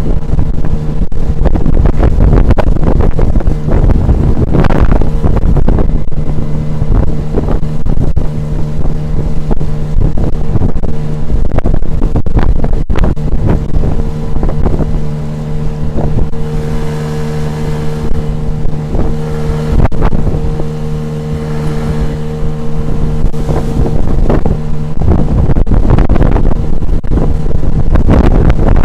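Tohatsu 9.8 outboard motor running steadily at speed on an inflatable boat, with repeated knocks of the hull slapping the water and wind buffeting the microphone.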